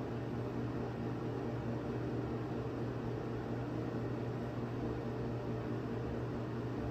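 A steady, unchanging low hum with a hiss over it, from a small machine or appliance running.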